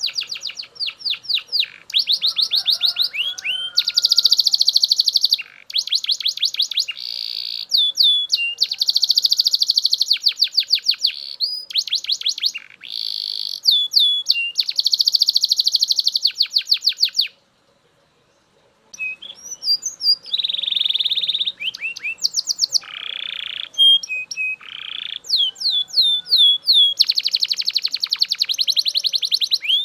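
Male Belgian canary singing loudly and continuously: long rolling trills and runs of rapid repeated notes, the phrase changing every second or two. It breaks off for about a second a little past halfway, then goes on.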